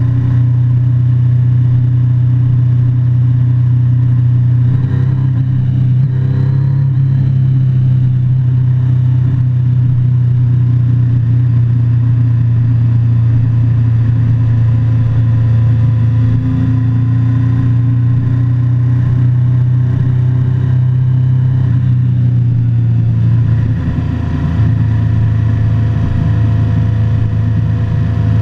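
Motorcycle engine running steadily under way, with a brief rise and fall in pitch about five seconds in and a short drop in level and pitch about 24 seconds in, like a change of throttle or gear.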